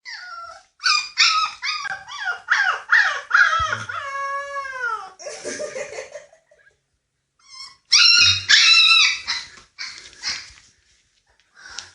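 Puppies yelping and whining in quick high-pitched calls, with one longer drawn-out whine that falls in pitch about four seconds in. A pause follows, then another flurry of yelps around eight seconds in.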